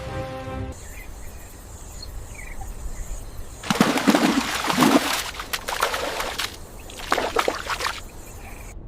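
Outdoor nature sound with water splashing in noisy bursts, the loudest from about four to six seconds in and another shortly after seven seconds, with a few faint bird chirps before them.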